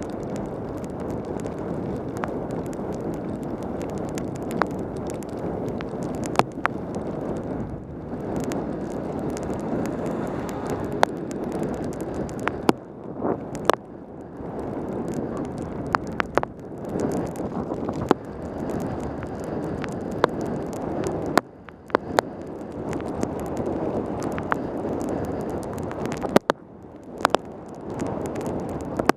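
Wind rushing over a helmet camera's microphone during a fast bicycle descent in heavy rain, a steady noisy rush with many sharp clicks scattered through it and a few brief dips.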